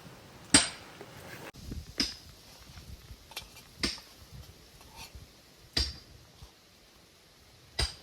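Kitchenware clinking: five sharp strikes, roughly two seconds apart, each with a short ring.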